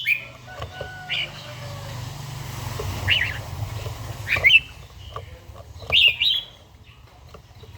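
Red-whiskered bulbul singing short, bright whistled phrases every second or two, over a low rumble that swells through the middle.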